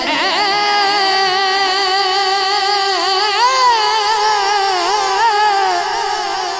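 Naat singing: a voice draws out a long wavering note without words, gliding and ornamenting the pitch.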